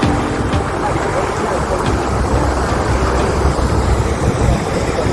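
Wind buffeting the microphone aboard a moving boat, gusting over a steady low rumble of engine and water.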